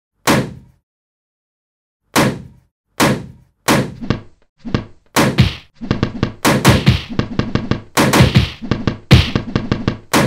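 Tractor engine firing up: single heavy knocks, far apart at first, come faster and faster until they run together into a quick, steady chugging.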